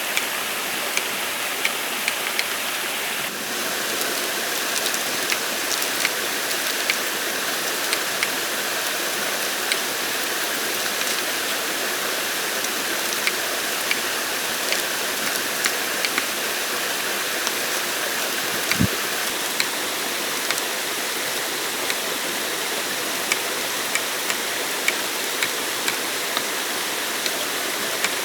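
Steady rushing water noise, with frequent sharp ticks over it and a single low thump about two-thirds of the way through.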